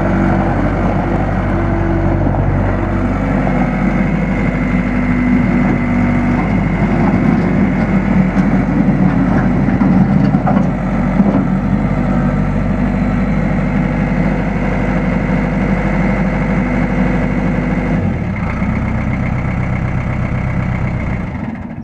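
Case 1840 skid steer's Cummins four-cylinder diesel engine running steadily, its note shifting a few seconds in and again near the end.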